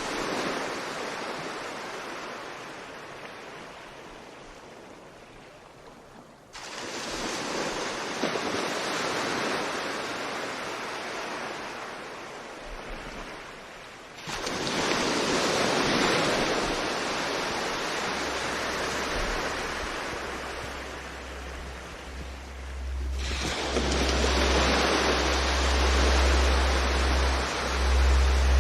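Ocean waves and rushing sea water with some wind, in several shots joined by sudden cuts; a low rumble builds in the last part.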